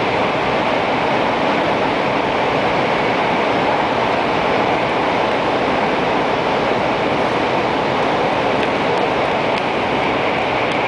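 Steady running noise inside a JR West N700 series 8000 Shinkansen car: a loud, even roar with no breaks.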